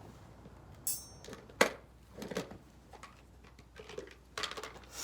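A delivered package being opened by hand: ripping and rustling of the packaging in short bursts, with a sharp knock about a second and a half in.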